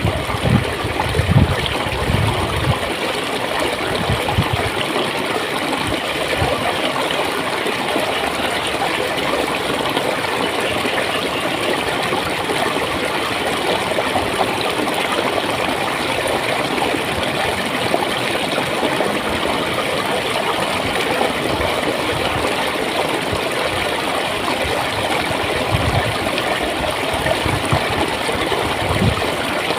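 Clear water flowing and gurgling steadily. A deep low rumble swells in and out during the first few seconds and again near the end.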